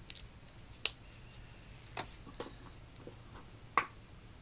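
Markers handled on a craft table: a few light clicks and taps, the sharpest about a second in, the kind made by snapping a marker cap on and setting markers down.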